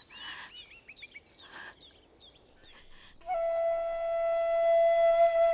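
Small birds chirping in short, quick calls. About three seconds in, a flute comes in and holds one long note as background music.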